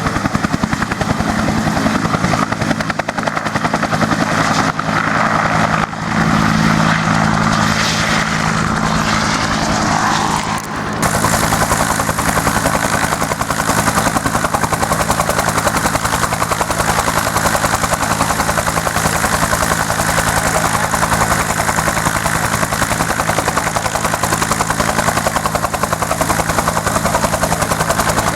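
U.S. Army UH-1 Huey helicopter running, with the turbine's steady tones and the rapid, even beat of its rotor blades. About eleven seconds in, the sound shifts abruptly and becomes brighter and hissier.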